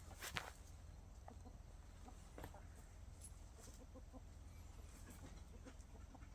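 Chickens clucking faintly, with a sharp click just after the start.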